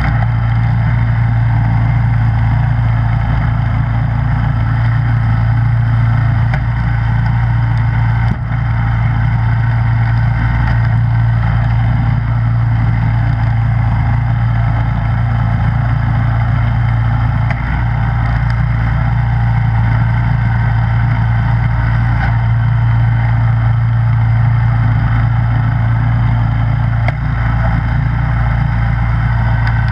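Snowblower engine running steadily at a constant speed, with a strong, even low hum.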